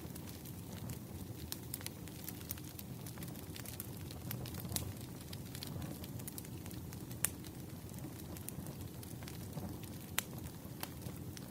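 Campfire burning: a steady low rumble of flames with scattered sharp crackles and pops, the loudest about 7 and 10 seconds in.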